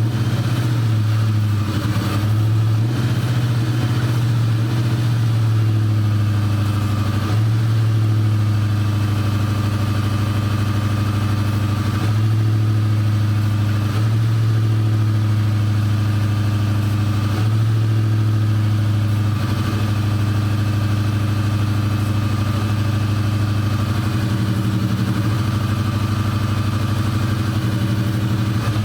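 Junkyard Lincoln Aviator 4.6-litre four-valve V8, freshly installed, running at a steady idle on its first start, its pitch shifting slightly every few seconds.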